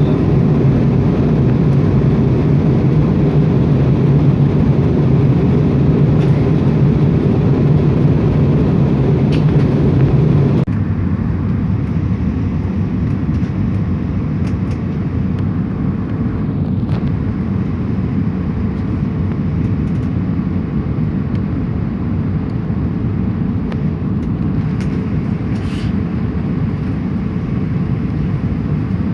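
Airliner cabin noise in flight, a steady low hum of engines and rushing air heard through the fuselage. About ten seconds in it drops abruptly to a slightly quieter, thinner level.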